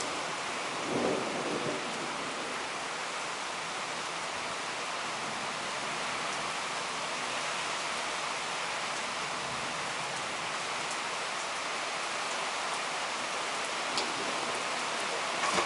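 Heavy thunderstorm downpour, rain pouring steadily, with a short rumble of thunder about a second in and another starting near the end.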